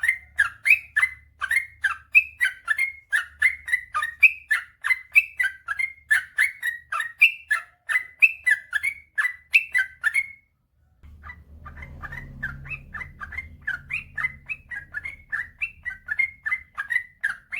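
Yellow-vented bulbul (trucukan) singing a long, fast run of short chirping notes, about three a second. The run breaks off briefly about ten seconds in, then resumes a little quieter over a faint low hum.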